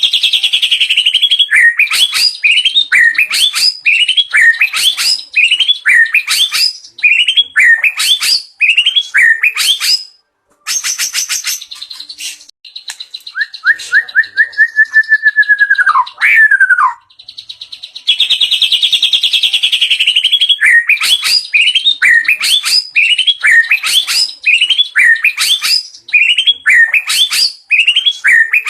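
White-rumped shama (murai batu) singing loudly, a run of learned mimicked phrases: a long series of sharp, hooked notes repeated about one and a half times a second, broken midway by a quick jumble of notes and a long clear whistle that slides downward, after which the repeated notes resume.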